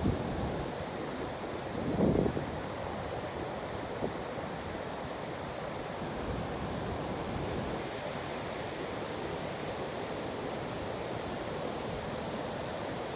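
Ocean surf washing steadily onto a sandy beach, with a brief louder low rumble about two seconds in.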